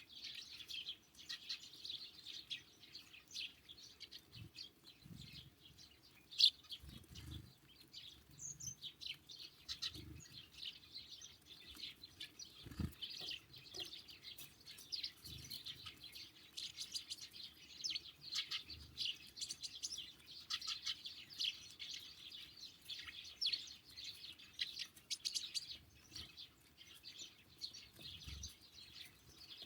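Small songbirds chirping and twittering continuously, with a few soft low thumps.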